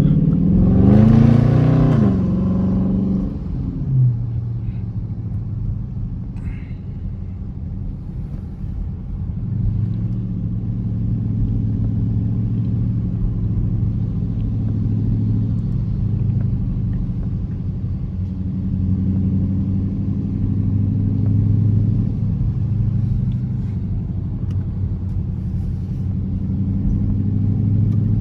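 Dodge Charger R/T's 5.7-litre HEMI V8 revving up hard under acceleration for the first couple of seconds, then easing off and running at a steady cruise with a low, even engine drone.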